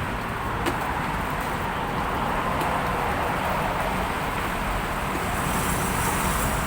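Steady road traffic noise from passing vehicles, with no clear single event standing out.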